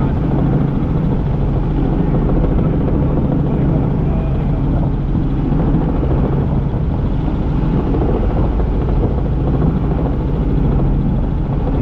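Helicopter in flight heard from inside the cabin: a loud, steady drone of the rotor and engine.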